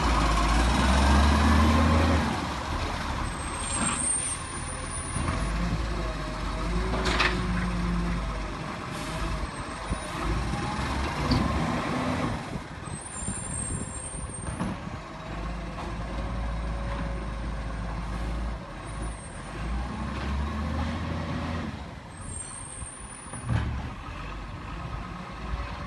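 Garbage truck's engine running and working under varying load, with short air-brake hisses.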